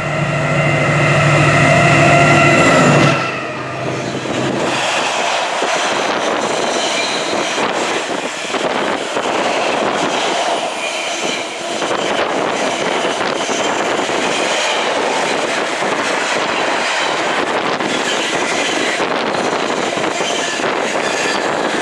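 Freightliner Class 70 diesel locomotive sounding a steady horn for about three seconds as it approaches. It then passes hauling an intermodal container train, with the continuous rumble and clatter of container wagons going by.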